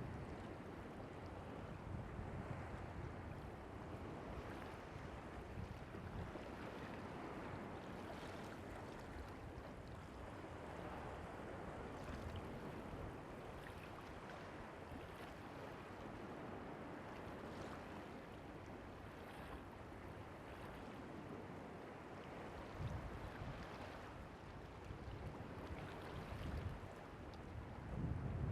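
Faint, steady sea waves washing on the beach, with some wind rumble on the microphone growing toward the end.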